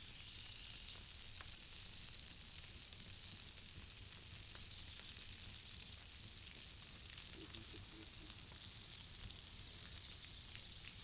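Meatballs searing in hot olive oil in a cast iron pan: a steady sizzle with scattered faint crackles of spitting fat.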